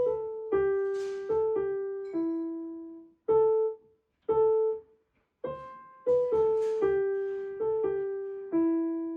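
Solo piano music: a slow melody of single notes, each struck and left to fade. It pauses briefly midway, then the same phrase comes round again.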